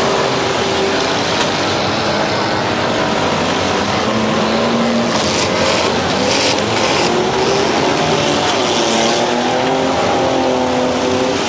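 Demolition derby cars' engines running loud and revving, their pitch rising and falling as the cars drive and ram on the muddy track, with a few short sharp noises about five to seven seconds in.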